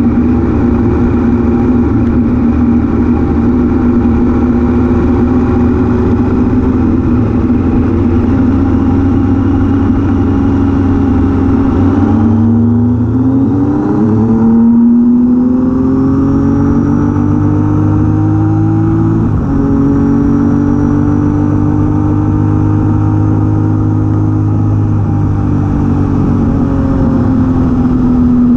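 Triumph Daytona T595's inline-triple engine running steadily under way with a stock silencer. About twelve seconds in the revs drop and climb again, then hold steady and ease off slightly near the end.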